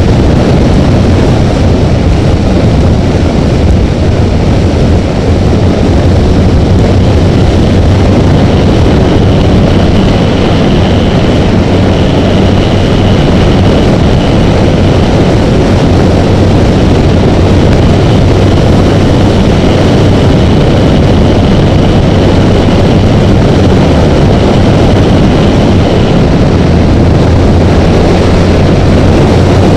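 Honda Rebel motorcycle cruising at freeway speed: a loud, steady rush of wind noise over the camera's housing with a constant engine drone underneath.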